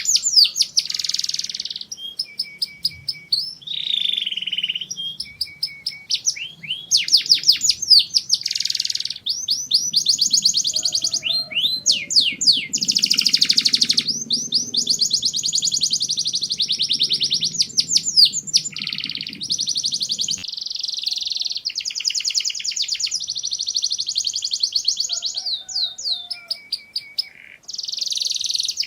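Domestic canary singing: a long run of fast trills and rapidly repeated high notes, changing from phrase to phrase, with brief pauses between phrases.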